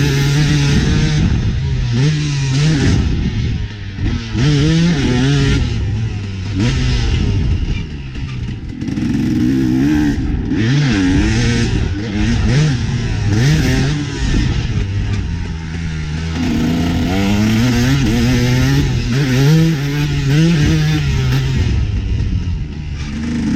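KTM 250 SX two-stroke motocross engine revving hard and dropping back again and again as the throttle is opened and closed around the track.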